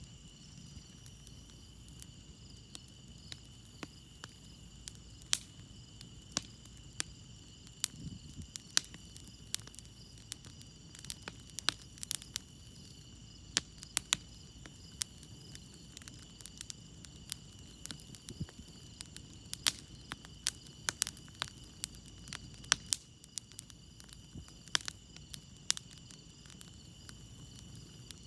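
Wood campfire crackling, with frequent sharp pops at uneven intervals, over a steady chorus of crickets chirping high.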